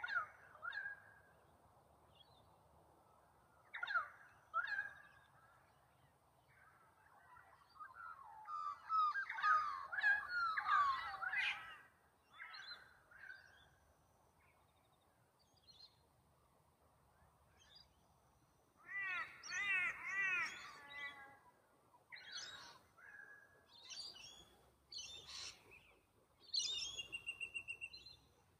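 Wild birds calling and singing. Short downward-sweeping calls come at the start and about four seconds in, then a burst of warbling song around ten seconds in. Around twenty seconds in there is a quick run of repeated rising-and-falling notes, and near the end a fast stuttering series of high notes.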